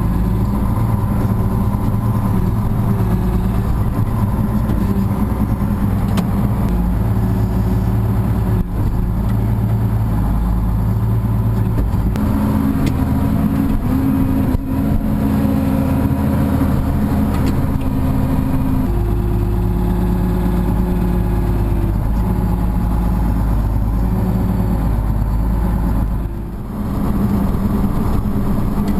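An engine running steadily, its pitch stepping up about twelve seconds in and back down about seven seconds later, with a brief drop in level near the end.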